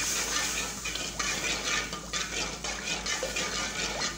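Spiced yogurt masala sizzling in hot oil in a metal pan while a metal spoon stirs it, scraping the pan bottom in short repeated strokes. This is the masala being fried until the oil separates.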